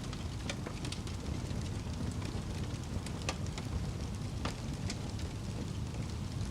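Wood fire crackling: a steady low rush of burning with irregular sharp pops and snaps, the clearest a little after three seconds and about four and a half seconds in.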